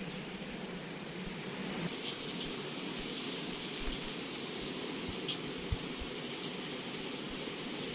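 Heavy rain pouring steadily against a window, an even hiss with scattered sharp ticks of individual drops and a few faint low thumps.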